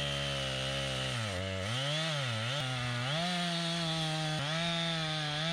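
Two-stroke chainsaw running under load as it cuts through dead timber, throwing big chips. The engine pitch sags and wavers as the chain bites, from about one to two and a half seconds in, then holds steady.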